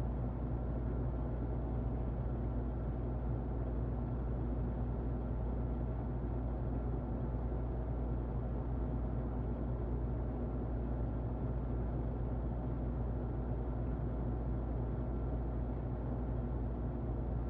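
Muffled electric fan running steadily: an even, deep whooshing hum with a faint high whine held on one note.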